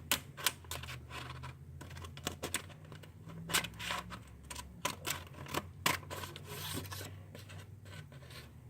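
Paper being cut with scissors and handled: irregular snips, crinkles and rustles.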